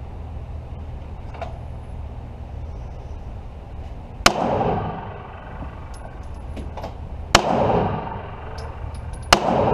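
Three pistol shots, the first about four seconds in, then about three and two seconds apart, each followed by a short echo.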